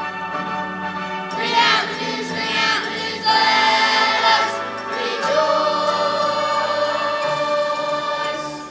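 Choir singing with instrumental accompaniment, sustaining notes; the music fades out near the end.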